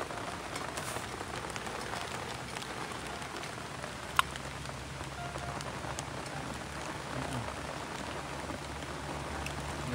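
Steady rain falling on a surface, an even hiss throughout, with one sharp click about four seconds in and a faint low hum in the second half.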